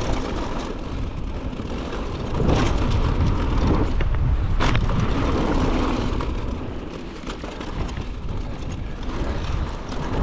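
A mountain bike riding down a dirt jump trail: wind rush on the microphone and tyres rolling over dirt, with frame and chain rattles and a sharp knock about four and a half seconds in.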